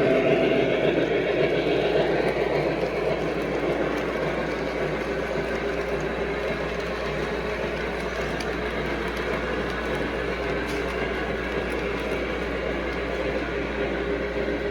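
Lionel O gauge Western Maryland 1309 articulated steam locomotive model running on the layout: a steady rumble of its wheels and motor on the track mixed with its onboard steam sound effects, growing a little fainter over the first few seconds.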